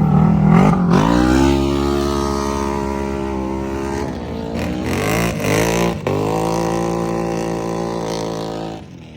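Off-road vehicle engine running. Its pitch drops about a second in and settles, dips and rises briefly in the middle, then holds steady before cutting off at the very end.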